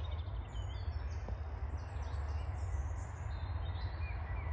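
Small birds chirping at intervals over a steady low rumble of background noise.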